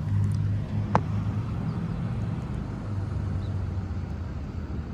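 Steady low rumble of road traffic with a low hum. There is one sharp click about a second in.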